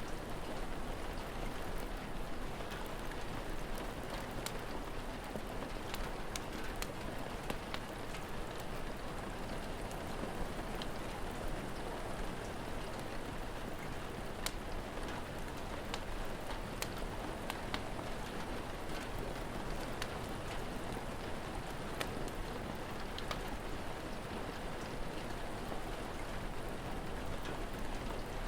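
Steady rain falling, with scattered sharp pops and crackles of a wood fire through it.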